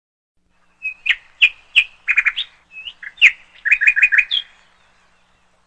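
A small songbird chirping and twittering: a run of short, high chirps and quick repeated trill notes lasting about four seconds.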